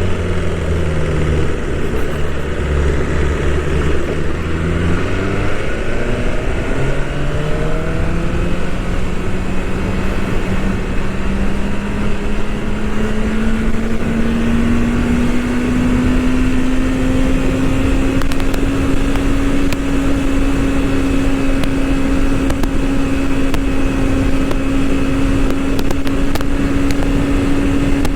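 BMW S1000RR's inline-four engine running under way, with wind noise over the microphone. About five seconds in the engine note drops, then climbs slowly over some ten seconds to a higher pitch and holds steady.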